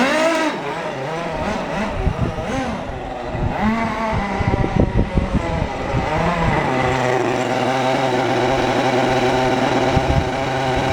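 O.S. 49-PI twin-rotor model Wankel rotary engine being blipped, revving up and falling back several times with irregular crackles, then settling to a steady, constant speed for the last few seconds.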